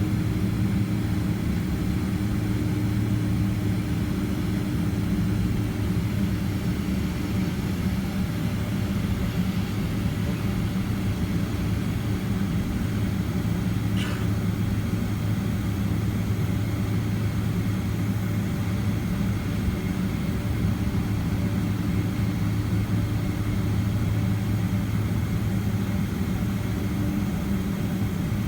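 Steady low hum of a Boeing 767-300ER's jet engines at idle, heard inside the passenger cabin during taxi, with one brief click about halfway.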